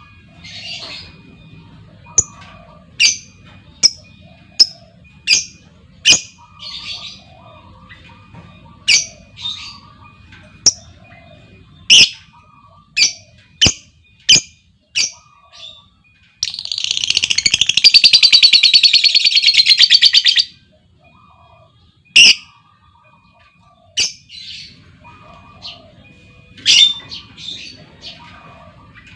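Female lovebird calling with sharp, high single chirps about once a second, breaking just past the middle into a long, very rapid chattering trill (ngekek) of about four seconds, then back to single chirps.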